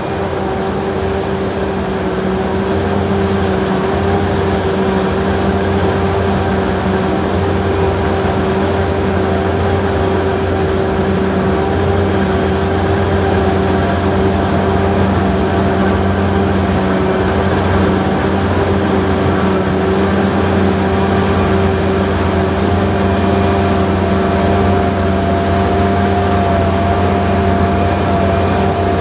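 Forage harvesting machinery running steadily in the corn field: a constant heavy engine drone with a steady high whine over it.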